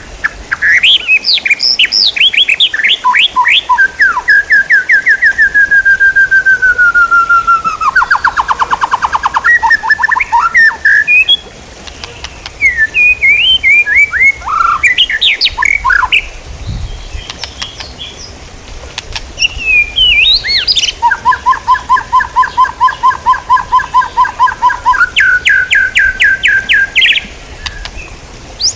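Songbird singing in rapid trills of evenly repeated notes, one sliding down in pitch, with bursts of varied chirps between them. It is a masteran recording, bird-song material played to teach captive songbirds such as the white-rumped shama.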